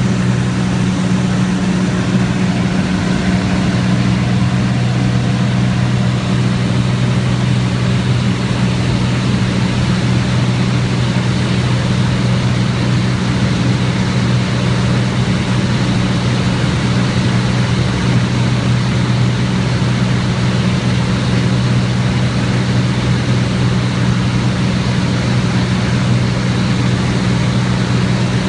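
A Cessna 206's piston engine and propeller running steadily in flight: a loud, constant low drone that never rises or falls.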